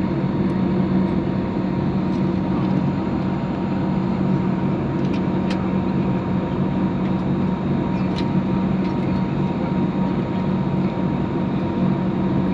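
Steady cabin noise of a jet airliner in its climb after takeoff: an even rush of engine and air noise with a low hum and a thin constant tone, a few faint clicks over it.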